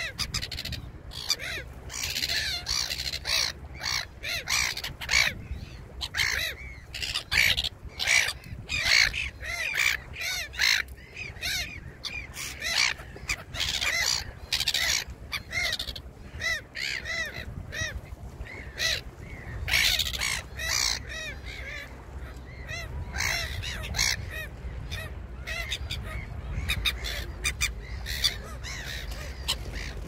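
Birds calling over and over, a dense run of short, harsh calls one after another that thins out toward the end, over a steady low rumble.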